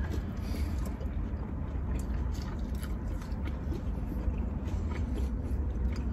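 Close-up chewing and mouth sounds of someone eating a buffalo chicken wing, with scattered small clicks over a steady low rumble.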